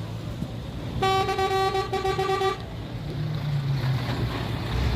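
Truck horn sounding for about a second and a half, with a brief break partway, over the steady low rumble of a running diesel engine.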